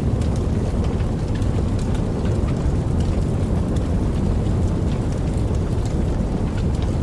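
Steady low rushing of falling or flowing water, with small splashes and drips ticking over it throughout.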